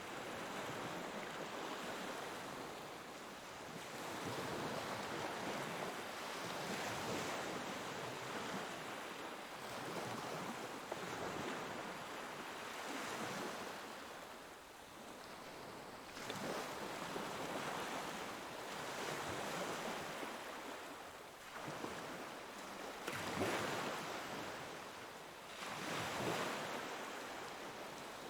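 Ocean waves breaking and washing on a shore, the surf swelling and falling back every few seconds, with a few sharper breaks near the end.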